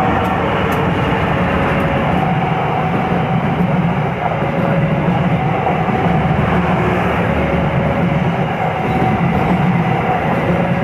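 Passenger train hauled by a CC203 diesel-electric locomotive passing at speed at close range: a steady, loud rumble and rattle of the locomotive and then its coaches running over the rails.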